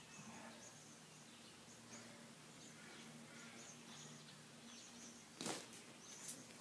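Quiet garden ambience: faint, high bird chirps repeating over a faint steady low hum. A brief noisy burst about five and a half seconds in is the loudest sound, with a smaller one just after.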